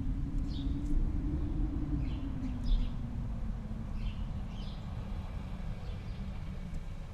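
Outdoor field recording of small birds giving short, high chirps in little clusters every second or so, over a loud low rumble that swells and then eases over the first few seconds.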